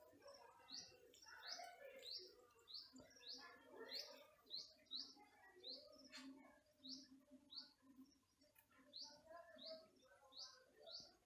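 Faint birds chirping: short, high, falling notes repeated about twice a second, over softer, lower chirping.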